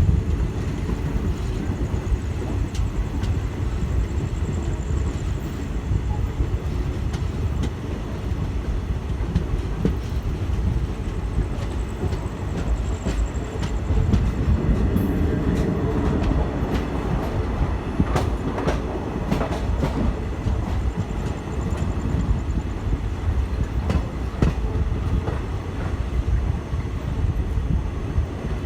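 Passenger train running on the rails: a steady low rumble of wheels on track, with sharp clicks of the wheels over rail joints, bunched around the middle and again near the end.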